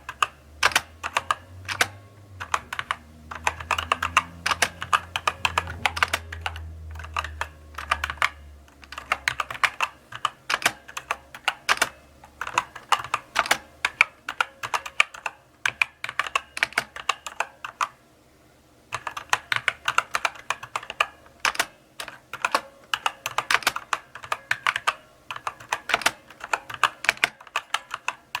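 Mechanical keyboard typed on slowly: uneven runs of key clicks and clacks, with a short pause about two thirds of the way through. A low hum sits underneath for the first third.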